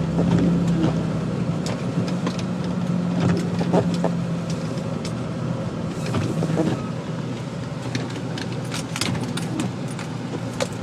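Inside the cab of a Jeep TJ driving: a steady low drone from the engine and road, with frequent short rattles and clicks. The hum drops away about two-thirds of the way through.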